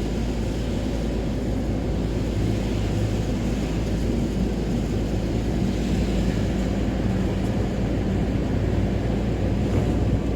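Camper van driving at a steady speed, heard from inside the cab: a constant engine hum with tyre and road noise.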